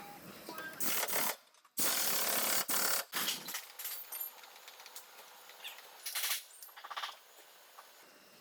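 A workshop power or air tool run in several short bursts that start and stop suddenly, the longest lasting about a second; one burst near the end has a fast rattle.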